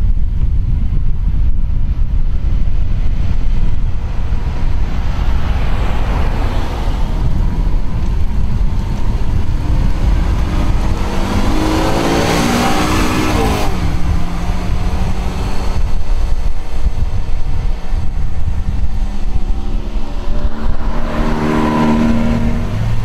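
Lamborghini Veneno's V12 engine running over a constant low rumble as the car moves off and passes. The engine note rises sharply in a rev about halfway through, cuts off suddenly, and climbs again near the end.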